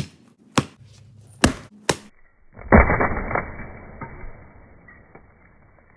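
Four sharp knocks or whacks, irregularly spaced over about two seconds, then a burst of rushing noise that fades away.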